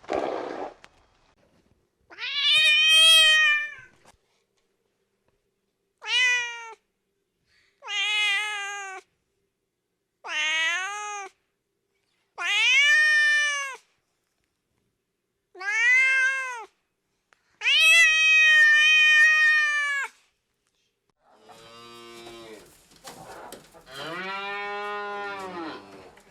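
A domestic cat meowing seven times, each meow drawn out and rising then falling in pitch. Near the end comes a lower, rougher call from another animal.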